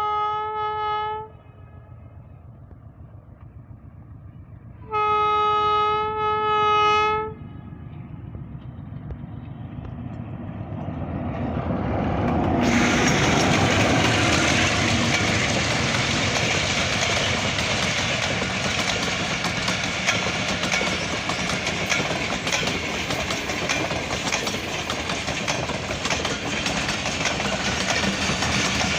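Passenger train's horn sounding a short blast, then a longer blast about five seconds in. The train's rumble then builds, and from about twelve seconds in the train passes close by, with loud, steady wheel-on-rail noise.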